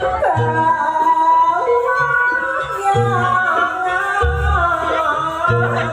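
Live Banyuwangi jaranan music: a winding, sliding vocal melody over the ensemble, with a few deep drum strokes.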